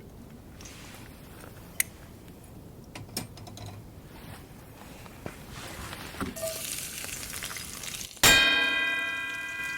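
A hissing sizzle builds up, then about eight seconds in a sharp metallic clang rings out with several ringing tones that fade slowly.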